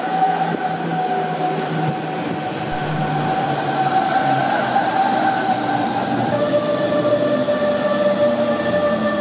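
Passenger train running, with a steady high whine that steps down in pitch about six seconds in.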